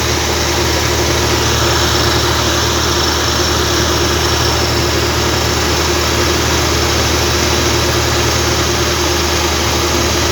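Diesel engine of a deep-well bore drilling machine running steadily at an even speed.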